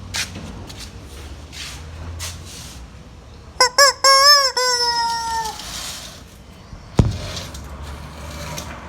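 Chicken calling: two short squawks, then one long drawn-out call that sags slightly in pitch, about four seconds in. A single sharp click follows near the end.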